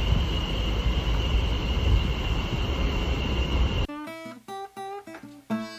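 A loud, steady low rumble with a thin steady whine above it cuts off suddenly about four seconds in. Plucked acoustic guitar music follows, a few separate notes and chords.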